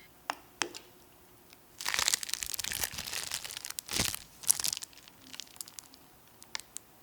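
Crinkling and crackling handling noise in a kitchen: a few sharp clicks, then a dense crackly stretch about two seconds in, and a louder knock and a short second crackle about four seconds in.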